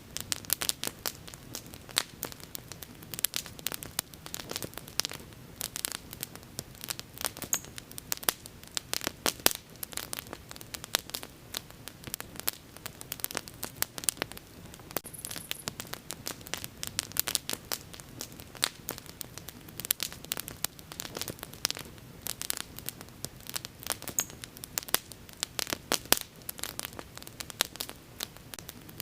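Bonfire burning with dense, irregular crackling and popping over a steady hiss of flames.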